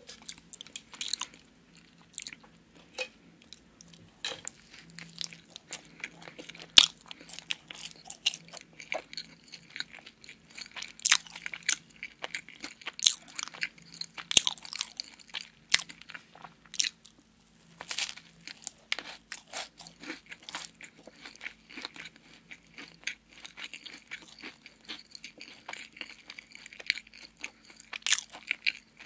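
Close-miked chewing and biting of a cream-filled donut topped with an Oreo cookie: crunching of the cookie with wet mouth clicks and smacks in a rapid, irregular run.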